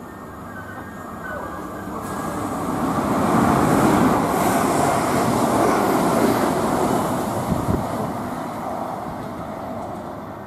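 Train passing through a station: its noise builds for a few seconds, peaks about four seconds in, then fades away as it goes by.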